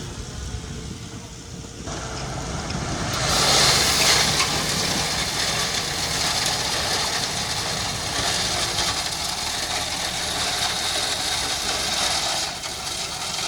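Heavy construction machine's engine running steadily, with a loud rushing noise that joins about two to three seconds in and eases near the end.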